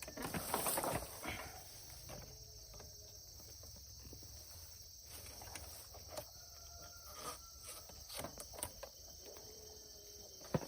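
Insects chirring steadily in a high, even drone, with a burst of rustling in the first couple of seconds and scattered light clicks and knocks.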